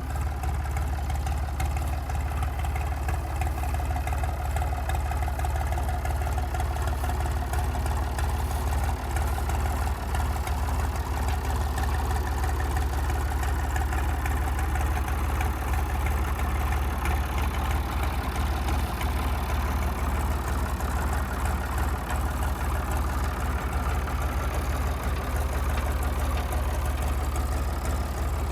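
Engine idling steadily, a constant low hum with no revving or changes.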